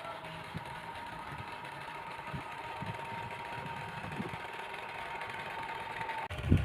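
Small battery-powered electric motor in a cardboard toy tractor engine, running with a steady whirring hum and light irregular knocking. The hum cuts off suddenly about six seconds in, and a loud thump follows near the end.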